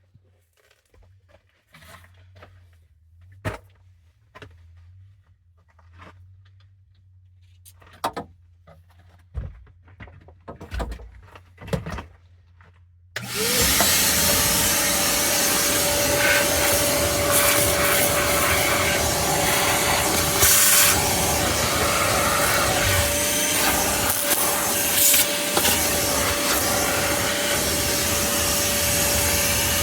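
Scattered knocks and rustles of handling, then about thirteen seconds in a vacuum cleaner switches on: its motor whine rises quickly to a steady pitch and runs on with a loud, even rush of air.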